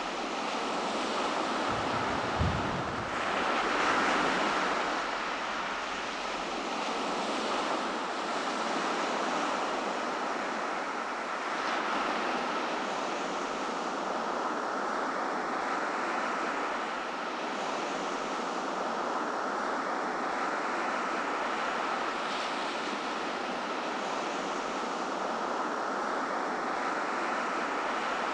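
Ocean surf washing onto a beach: a steady rushing hiss that swells and eases as waves come in, with a louder break about three seconds in.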